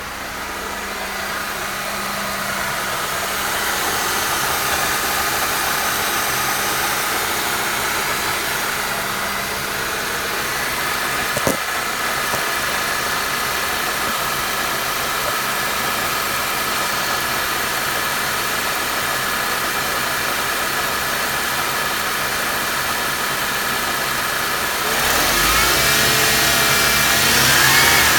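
Mercedes M271 four-cylinder engine running with a steady whine over it from the belt drive, a noise that was traced to a faulty belt tensioner. A single sharp click comes about eleven seconds in, and near the end the engine is revved briefly, its pitch rising and falling.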